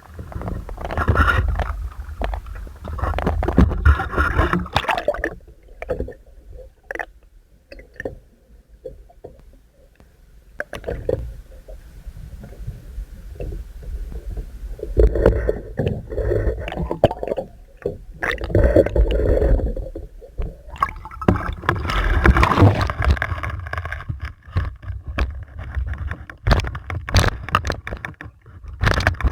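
Water sloshing and gurgling around a small fishing boat in irregular surges, with a low rumble underneath and scattered knocks and scrapes. It quietens for a few seconds about a third of the way through.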